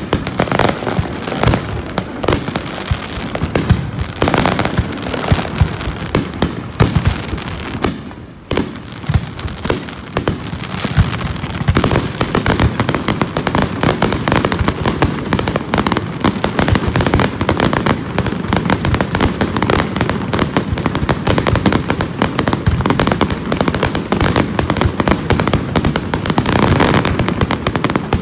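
Fireworks display heard at close range, near the launch area: a rapid run of shell bursts and crackling with a brief lull about eight seconds in. From about twelve seconds in the bursts merge into a dense, continuous barrage.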